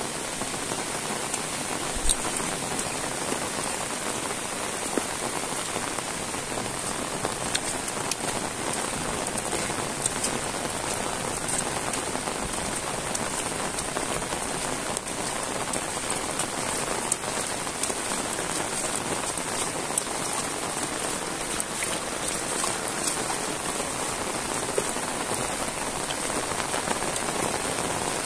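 Heavy rain falling steadily, a dense even hiss dotted with sharper drop hits, one louder tap about two seconds in.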